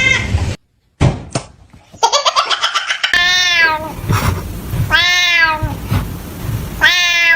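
A domestic cat meowing: three long, drawn-out meows about two seconds apart, each falling in pitch toward its end, after a brief silence and a few clicks near the start.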